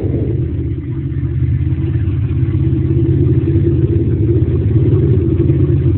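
A vehicle's engine running steadily as it drives, growing slightly louder a couple of seconds in.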